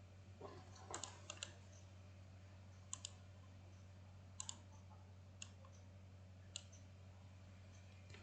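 Computer mouse buttons clicking as objects are selected and drawn, about ten clicks with several quick double-clicks, over a faint steady electrical hum.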